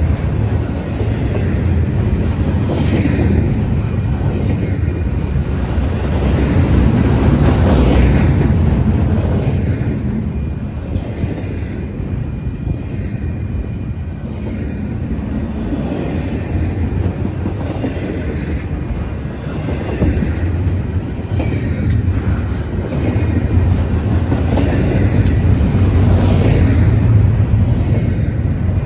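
Cars of a long Union Pacific intermodal freight train rolling past at close range: a steady, loud rumble of wheels on rail, with clacking and some high wheel squeal.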